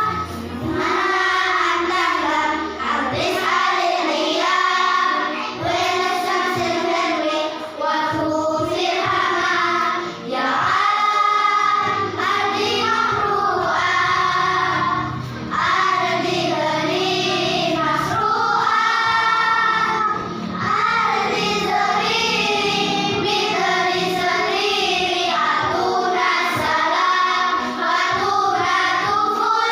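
A choir singing, several voices together, with brief dips between phrases every few seconds.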